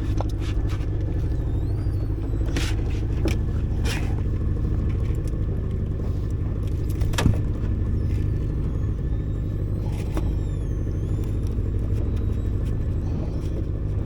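Small boat's outboard engine running steadily at low speed, a continuous low drone, with a few sharp knocks on the boat, the loudest about seven seconds in.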